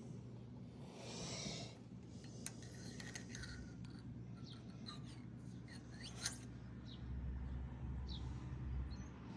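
Faint outdoor quiet: a few short high chirps from a small bird over a low steady hum, with a brief rustle about a second in and scattered small clicks of handling.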